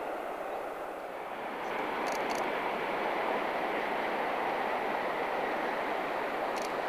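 Hokuriku Shinkansen E7/W7-series high-speed train running past with a steady rushing noise that swells slightly about a second and a half in and then holds.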